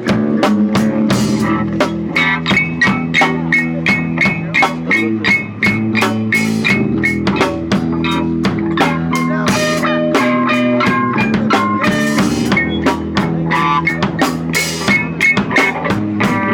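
Punk rock band playing: guitar, bass guitar and a drum kit with fast, steady drum hits under repeated guitar notes.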